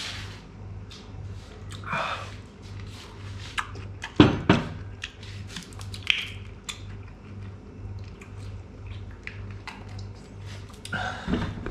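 A person chewing a mouthful of pickle, with small mouth clicks over a steady low hum and one sharp knock about four seconds in.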